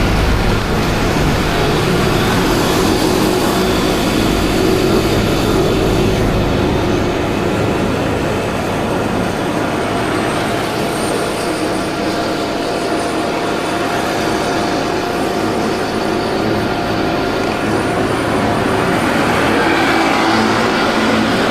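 A 50cc scooter under way at road speed: its small engine running steadily amid road and traffic noise, loud and unbroken.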